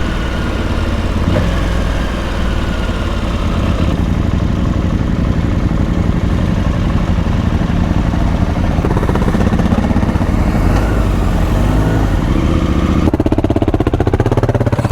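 Adventure motorcycle engine running while being ridden off road, a steady loud engine note whose sound changes abruptly about four seconds in and again near the end.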